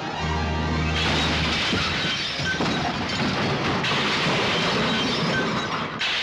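Cartoon crash sound effect: a long, loud run of smashing and clattering that starts about a second in, with orchestral music underneath.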